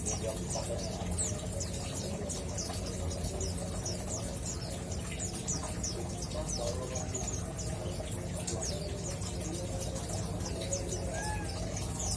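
Male mountain white-eye (pleci Monty) twittering in a steady stream of short, high chirps, several a second, over a low steady hum.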